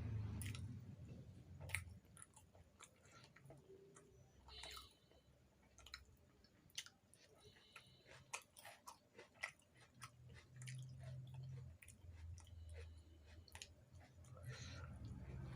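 A person chewing and eating puri with potato curry close to the microphone: soft mouth clicks and smacks at irregular intervals.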